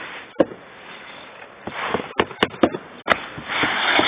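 Irregular sharp knocks and clatters, about seven in a few seconds, with a burst of rustling noise near the end.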